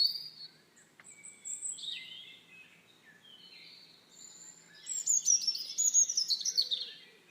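Birds chirping and singing, with a quick run of short falling notes from about five seconds in.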